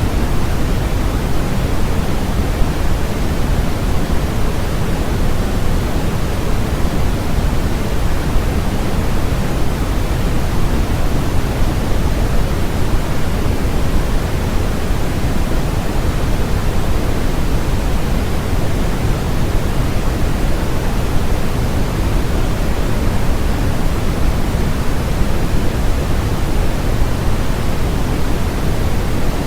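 Steady, unchanging generated noise of the kind sold as white noise, heavier in the low end than in the highs, with no rhythm, tones or breaks.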